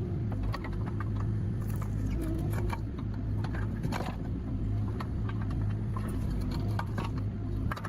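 Hydraulic excavator engine running steadily, with scattered sharp clicks and knocks throughout.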